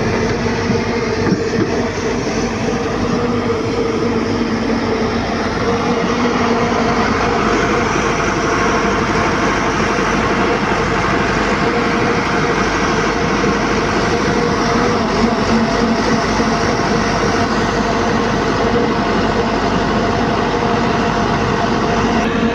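Heavy diesel machinery running steadily: a constant engine drone with a steady whine over it.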